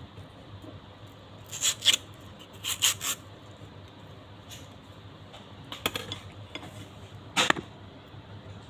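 Close-miked crunchy bites and chewing of mango slices, in four short crisp clusters of crunches.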